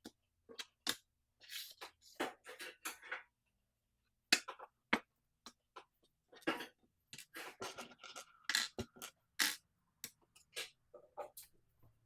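Scattered clicks, knocks and short scrapes of tools and small parts being picked up and set down on a workbench, an irregular clatter of several dozen small impacts.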